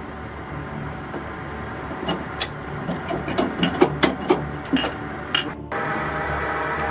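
Metal clanks and clinks of submarine torpedo-handling gear as a torpedo is moved along the loading track: a string of sharp, ringing knocks over a steady machinery hum. Near the end the knocks stop and a louder steady hum takes over abruptly.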